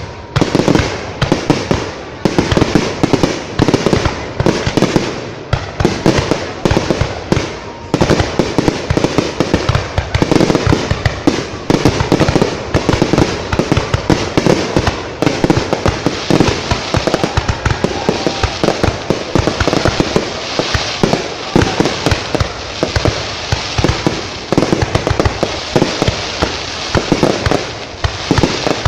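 Fireworks display going off in a dense, unbroken barrage of sharp bangs, several a second, with crackling between them.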